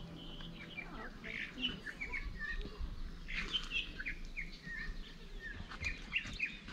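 Small birds chirping, a quick scatter of many short, high calls that overlap one another.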